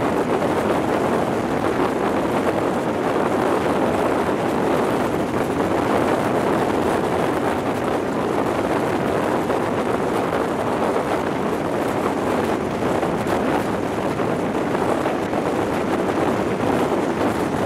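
Steady rush of wind over a microphone held out of the window of an InterCity 125 high-speed train travelling at speed, mixed with the train's running noise.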